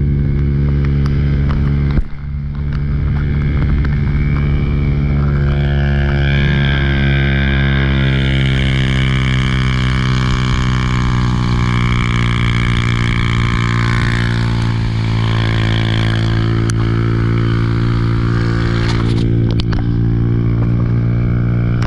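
Motorcycle engine running steadily while riding, with a low rumble underneath and a brief sharp break in the sound about two seconds in.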